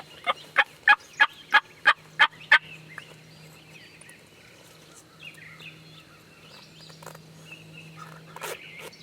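Wild turkey yelping: a run of about eight sharp, evenly spaced yelps, about three a second, then it stops.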